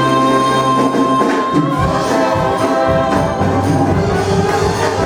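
A musical-theatre cast singing with a pit orchestra, loud and full: a long high note is held for about the first second, then the music moves on through changing chords with percussion.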